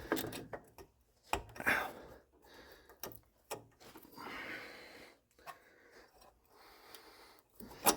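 A few scattered light clicks and knocks with some soft rubbing, from hands handling and fitting car parts, with a sharper click near the end.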